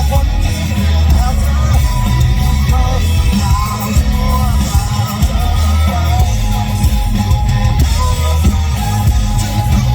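Live rock band playing loud through a festival PA, with electric guitars, bass and drums and some singing.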